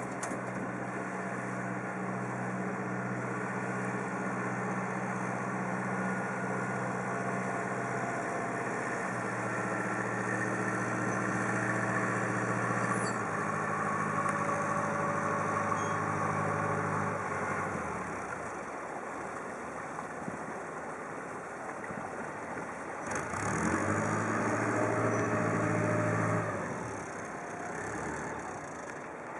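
Passenger ferry's engine running steadily, its pitch shifting a couple of times, then revving up and back down near the end.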